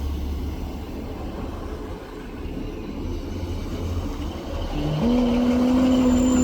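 Class 150 Sprinter diesel multiple unit, with a Class 156 coupled behind, running into the station with a low engine and wheel rumble. About five seconds in, a steady squeal of the brakes sets in as the train slows to stop.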